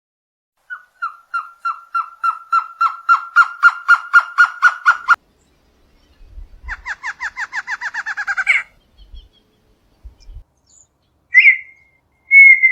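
A bird calling: a long run of repeated whistled notes on one steady pitch, growing louder and a little faster, which stops abruptly about five seconds in. After a short gap comes a faster run of down-slurred notes that rise in pitch at the end, and near the end two short loud whistles.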